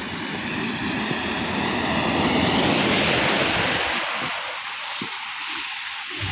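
A car passing on a wet, slushy street: tyre hiss swells to a peak about halfway through and fades away.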